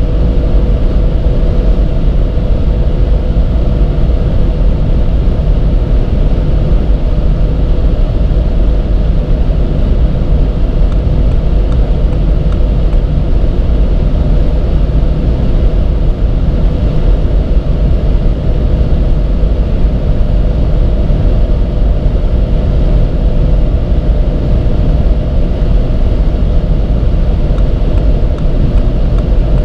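Audi TT RS's turbocharged 2.5-litre five-cylinder running at a steady high speed, a constant engine tone under heavy road and wind rumble, with no change in pitch.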